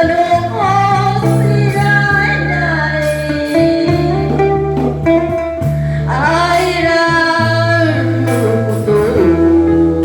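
Slow ballad played instrumentally: a gliding saxophone lead melody over guitar and sustained bass accompaniment.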